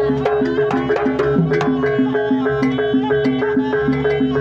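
Jaranan gamelan-style accompaniment music: a steady held note over a fast, even beat of struck pitched notes and drums, about three to four strokes a second.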